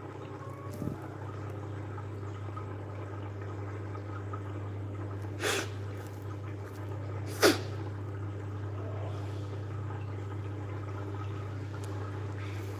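Steady low hum of an aquarium pump or filter running, broken twice by a short, sharp burst about two seconds apart, the second louder.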